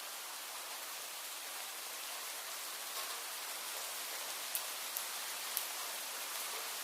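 Steady rain falling, an even hiss with a few sharp drop ticks near the end.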